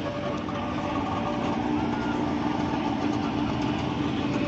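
A car engine idling steadily, a constant low hum with an even pitch.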